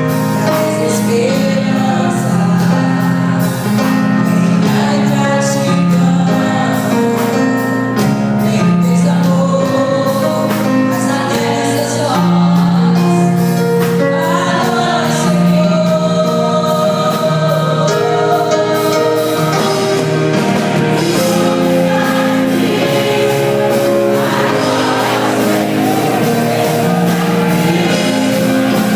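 Gospel music: voices singing held notes over instrumental backing.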